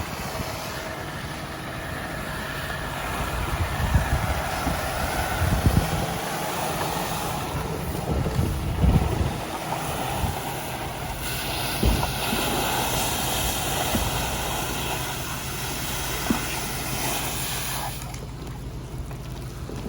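Steady engine rumble with wind buffeting the microphone in irregular low thumps, and a brighter hiss for several seconds past the middle.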